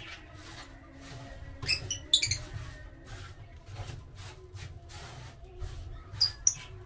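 Wood being shaved in quick repeated scraping strokes, about two to three a second, to make nesting material. Lovebirds chirp sharply about two seconds in and again near the end.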